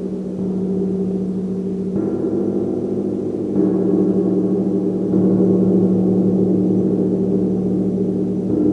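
Gong played with soft, repeated strokes about every one and a half seconds, building a steady wash of overlapping low humming tones that swells slightly with each stroke.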